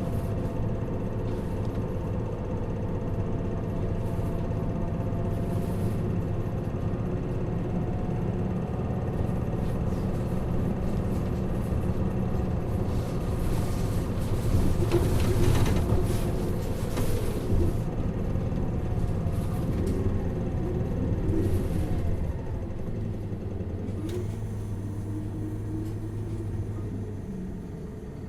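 Four-cylinder diesel engine of an Isuzu Erga LV290N1 city bus, heard from inside the passenger cabin, running steadily while the bus is driven. It grows louder and noisier around the middle, then the low engine note fades and the sound eases off near the end.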